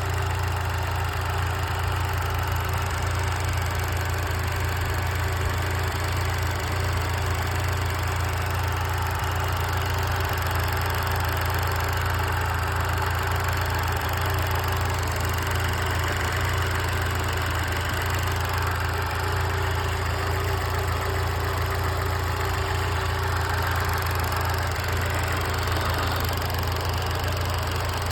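Car engine idling steadily with a knock in it; the owner does not know what causes the knock.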